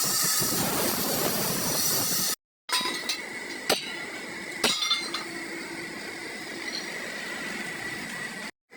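Loud, steady machining noise for about two seconds, then, after a cut, two sharp metal clinks about a second apart over a faint steady whine in a machine shop.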